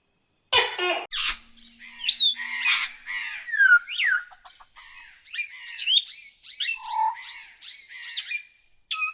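A short animal call, then many birds chirping, whistling and squawking over each other for several seconds, with quick rising and falling notes.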